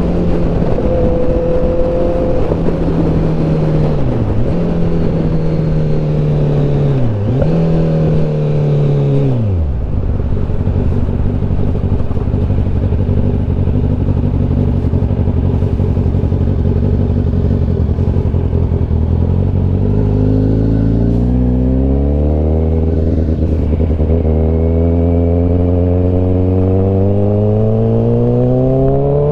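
Kawasaki ZX-10R inline-four sportbike engine holding steady revs, dipping briefly twice, then falling to a low steady idle about nine seconds in. From about twenty seconds in it pulls away through the gears, the pitch rising and dropping back at each of several upshifts, climbing again near the end.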